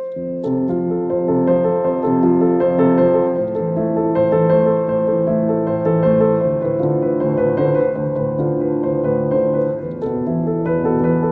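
Slow, calm piano music: held chords with a melody of sustained notes.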